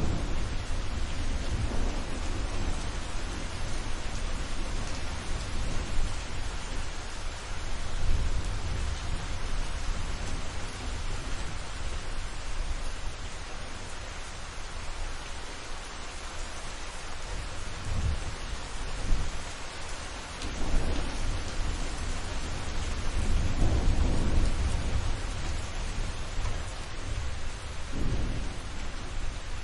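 Thunderstorm: steady rain hissing down, with rolling thunder rumbling again and again, loudest about two thirds of the way through.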